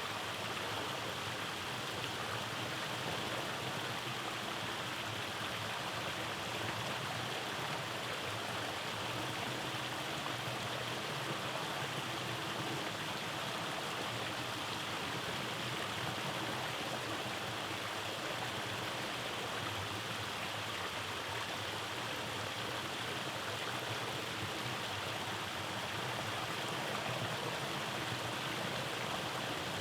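Rainforest mountain stream rushing steadily over small cascades and rocks.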